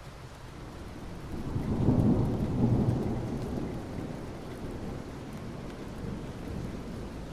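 Steady rain falling on asphalt, with a low rumble of thunder that swells about a second in, is loudest around two to three seconds in, and then dies away.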